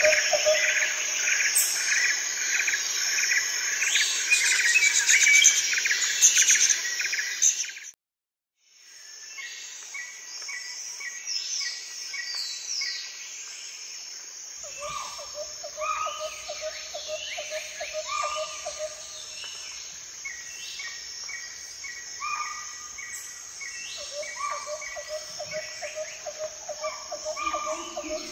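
Forest ambience of birds calling over an insect chorus: loud and dense for the first eight seconds, then it drops out for a moment and returns quieter, with repeated short falling whistles and a rapid low trill that comes and goes.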